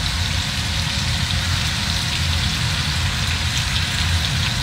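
Sliced pork belly frying with kimchi and mushrooms in its own oil in a pan, sizzling steadily, with a low steady hum underneath.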